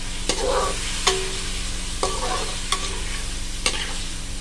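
Chicken pieces sizzling in hot oil in a karahi while a spatula stirs them, knocking against the pan with a short metallic ring about once a second.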